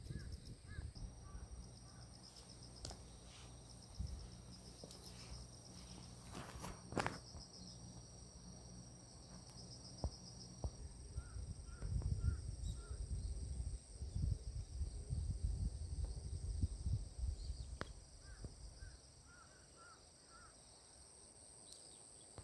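Steady high-pitched chorus of crickets and other insects, with a few soft short chirps in the middle and near the end, and a low irregular rumble on the microphone for several seconds in the middle.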